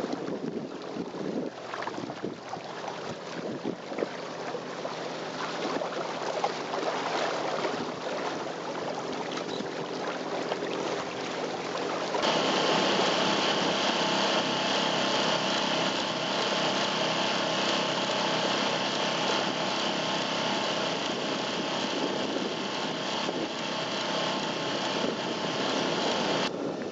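Wind and water noise while under way, then an abrupt cut about twelve seconds in to a boat's motor running steadily with a hum of many tones.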